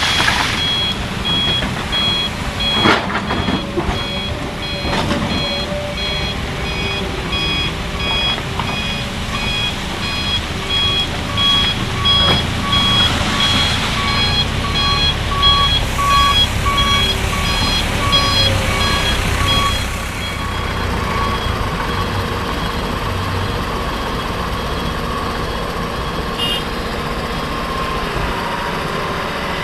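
A heavy vehicle's reversing alarm beeping in a steady repeating pattern over diesel engines running, typical of a dump truck backing up to be loaded. The beeping stops about two-thirds of the way through, leaving the engine running steadily.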